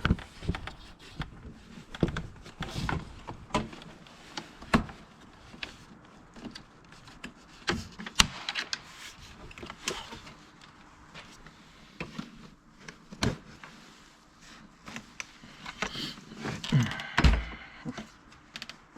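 Scattered clicks, taps and knocks of plastic trim, clips and connectors being handled as a car's interior door panel is detached, with a louder low thump near the end.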